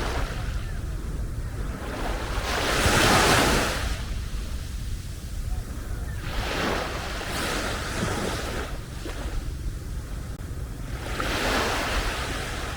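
Small sea waves breaking and washing up the beach, three surges a few seconds apart, the first the loudest.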